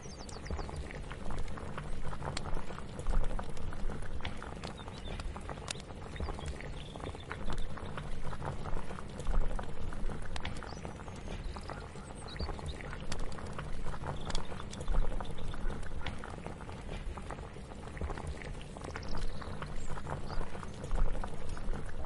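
Kitchen cooking ambience: something bubbling on the stove, with many small clicks and clinks scattered through it and a low rumble underneath. The level swells and eases every second or two.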